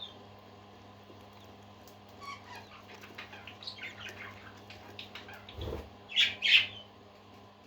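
Parakeets chirping and chattering in short bursts that begin about two seconds in, ending with two loud, sharp calls near the end, over a steady low hum. A brief low thud comes just before the loud calls.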